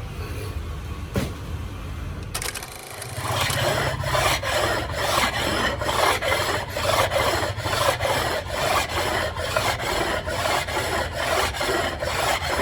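Quick, even rasping strokes of hand work with a rasping tool, about two to three a second, starting about three seconds in over a low steady hum.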